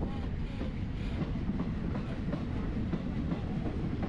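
A train running on the track: a steady low rumble with irregular clicks and knocks of the wheels on the rails.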